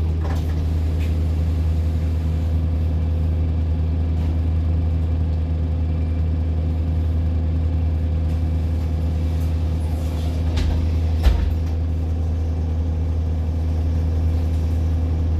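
Bus engine running steadily, heard from inside the passenger saloon as a low, even hum, with a single sharp knock about eleven seconds in.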